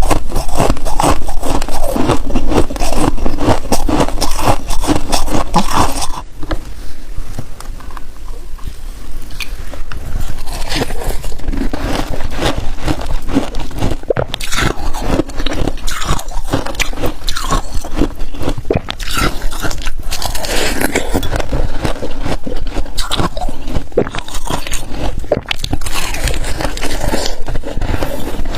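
Close-miked crunching and scraping of freezer frost: dense, crisp crackling as the frost is scraped loose and bitten and chewed, softer for a few seconds about six seconds in.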